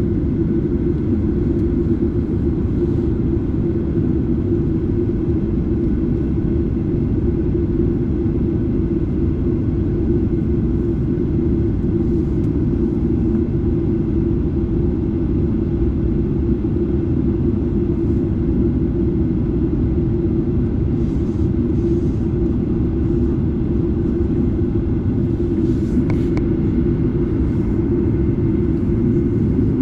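Steady rumble of a Boeing 737-8's CFM LEAP-1B engines and airflow, heard inside the cabin from a seat near the engine. It holds an even level throughout, with no rise or fall in power.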